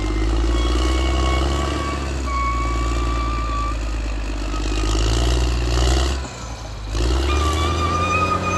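Caterpillar D6R XL bulldozer's diesel engine running under load, with a high, steady squeal over it. The engine note drops briefly about six seconds in, then picks up again.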